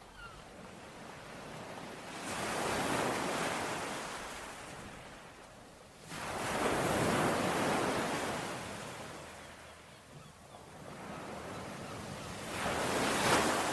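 Ocean waves breaking on a shore: three waves wash in one after another and each one falls back. The third wave, near the end, is the loudest.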